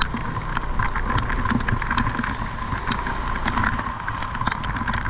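Raindrops striking an umbrella in irregular ticks, over the low, steady running of car and motorbike engines in slow traffic.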